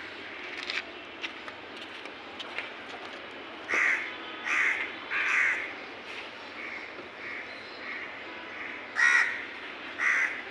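Crows cawing: three loud caws in quick succession about four seconds in, fainter calls after them, and two more loud caws near the end.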